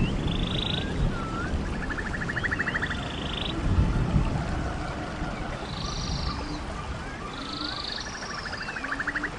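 Rainforest ambience of animal calls over a steady low rumble. Short high calls, small chirps and a rapid pulsed trill come in a pattern that repeats twice.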